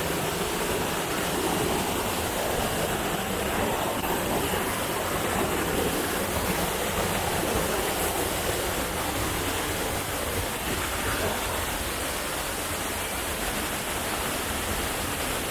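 Waterfall cascading over rock tiers: a steady, unbroken rush of falling water.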